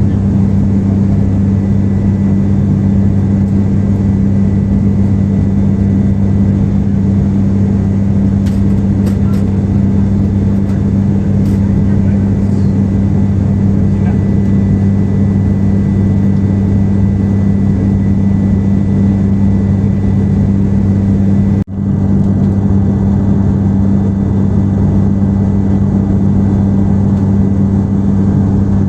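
Steady in-flight cabin drone of an airliner, engine and airflow noise with a strong, even low hum. The sound drops out for an instant about three-quarters of the way through.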